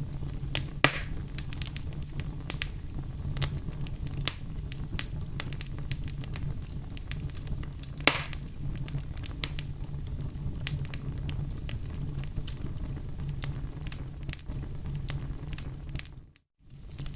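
Campfire crackling, with many small sharp snaps over a steady low rumble. Two louder pops come about a second in and about eight seconds in. The sound drops out briefly near the end.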